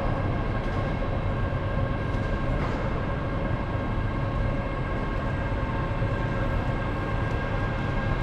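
A train running steadily: a constant low rumble with a steady whine of several held tones over it.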